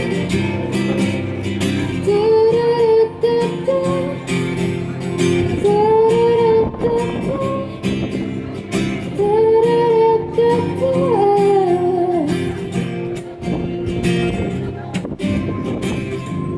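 A woman singing live to a strummed acoustic guitar, her sung phrases alternating with short guitar-only stretches.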